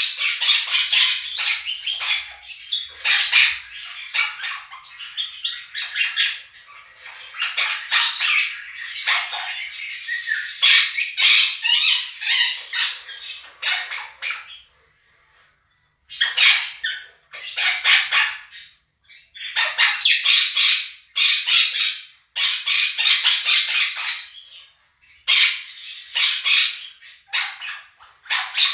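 Monk parakeets (Quaker parrots) calling loudly in harsh, rapid bursts of squawks and screeches, broken by a couple of brief pauses.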